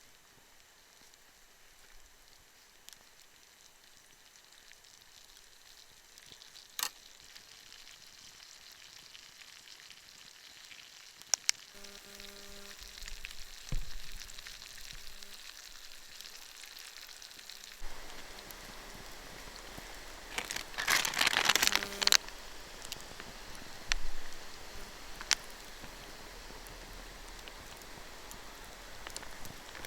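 Food sizzling in a hot pan. The first few seconds are faint; the hiss builds up from about halfway in, with a few sharp clicks and a louder surge of sizzling about two-thirds of the way through.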